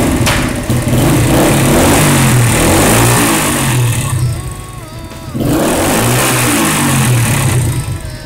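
1971 Honda 100cc motorcycle's single-cylinder four-stroke engine firing up right after a kickstart and being revved loudly twice, dropping back toward idle between the revs about four seconds in.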